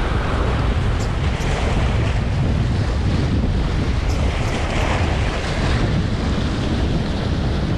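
Strong wind blowing across the microphone, a steady low rush, with waves washing against the shore.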